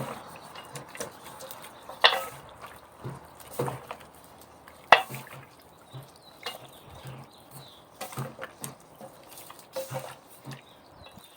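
Chicken wings being mixed by hand in a bowl of wet tempura batter: irregular wet squelches and slaps, the sharpest about two and five seconds in.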